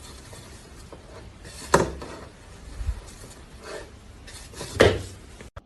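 Two sharp knocks about three seconds apart, with a few fainter ones between, over low room noise.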